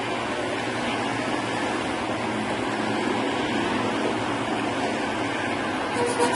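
A steady rushing noise of moving air, with a faint brief tone near the end.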